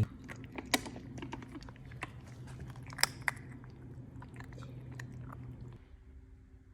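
A puppy chewing and crunching his food, with irregular crunches and clicks, a couple of them sharper and louder. The crunching stops about six seconds in.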